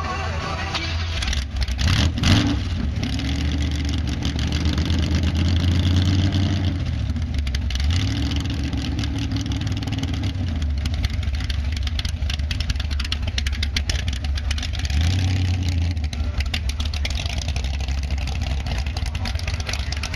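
Large motorcycle engine idling with a heavy low rumble, revved a few times with the pitch rising and falling back.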